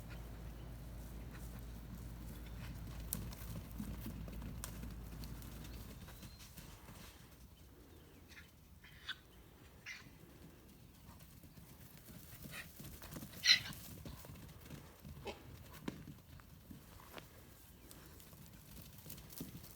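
Miniature donkeys' hooves on the ground as they run, heard as scattered short knocks and clatters, the loudest about thirteen seconds in. A low steady hum under the first six seconds then stops.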